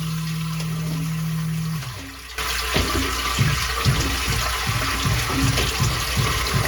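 Sump pump motor humming steadily, then shutting off under two seconds in. After a moment, water rushes in the discharge line and a rapid series of low knocks sets in: the banging of a faulty check valve after the pump's cycle ends.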